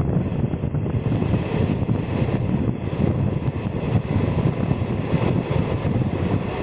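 Passenger train running through a station at speed without stopping, heard from the open doorway of a coach: a loud, steady rumble of wheels on rails.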